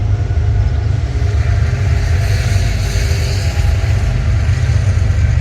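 A BNSF freight train passing, a loud steady low rumble, with a brighter hiss of rail and wheel noise swelling in the middle and easing off again.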